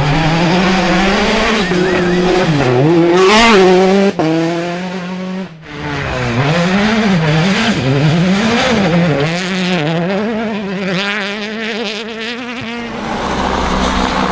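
World Rally Cars at full stage pace on gravel, the engines' revs rising and falling sharply again and again through gear changes. The sound breaks off abruptly about four seconds in and again about five and a half seconds in, then carries on at the same rising and falling pace.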